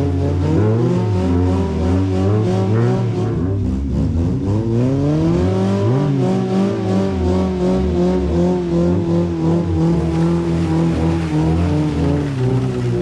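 1994 Honda Civic hatchback's four-cylinder engine revving hard as it tries to drive out of deep mud. The revs climb and fall in the first few seconds, then rise and are held high for about six seconds before dropping near the end.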